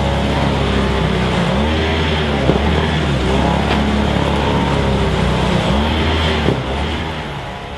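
An engine running, its speed rising and falling several times, then dropping away near the end.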